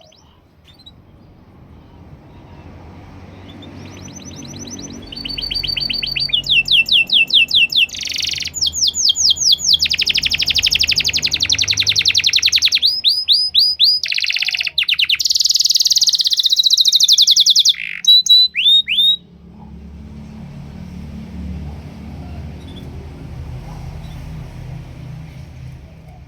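Domestic canary singing a long, loud song of rapid repeated trills and sweeping notes. The song switches to a new pitch and pattern every second or two and stops abruptly about three-quarters of the way through. A low background rumble runs underneath.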